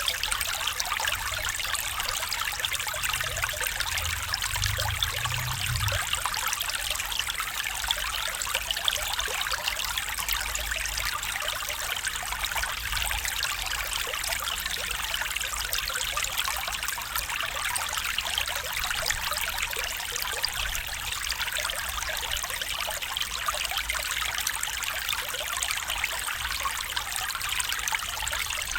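A small stream flowing and trickling steadily over stones, a continuous bright babble of water, with a faint low rumble a few seconds in.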